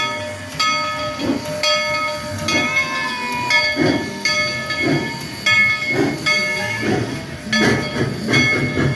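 Steam locomotive's bell ringing, struck about once a second, each ring fading before the next, over the locomotive's steam hiss.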